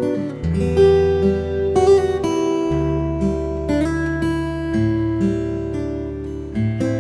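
Slow, relaxing instrumental acoustic guitar music: plucked notes and chords changing every second or so over long-held bass notes.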